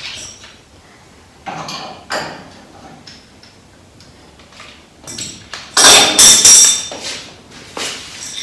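Metal hand tools and parts clanking and knocking in scattered strikes, with a run of loud clatter a little past the middle.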